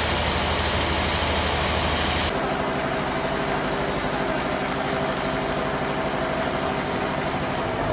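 Bandsaw sawmill running steadily with a dense mechanical hum. About two seconds in the sound changes abruptly: the high hiss drops away and a steady whine carries on.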